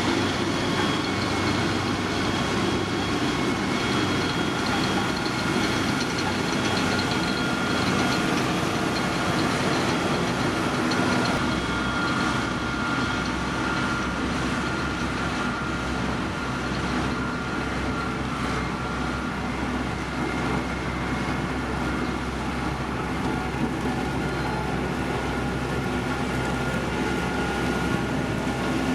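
Diesel engine of heavy road-construction machinery running steadily, with a whine over a low rumble. The low rumble shifts to a steadier drone about eleven seconds in.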